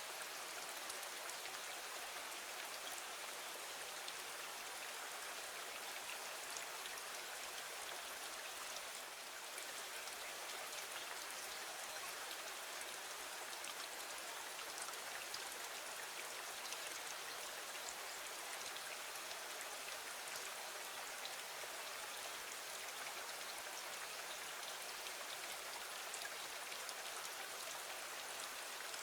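Steady rain falling against a window, an even hiss with scattered small drop ticks.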